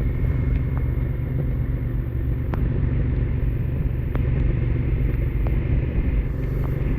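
Honda Africa Twin motorcycle engine running steadily under light load on a downhill, with steady road noise and a few sharp ticks.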